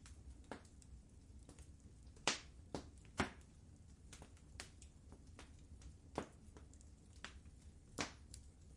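Wood fire in a fireplace crackling: irregular sharp pops and snaps over a low steady hum of burning, with the loudest pops a little over two seconds in, about three seconds in and near the end.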